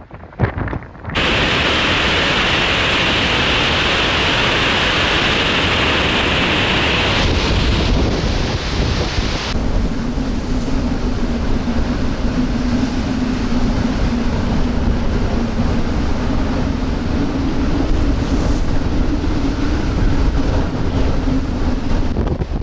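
Strong storm wind blasting across the microphone as a loud, steady rush. For roughly the second half, large waves breaking and surging are mixed in with the wind.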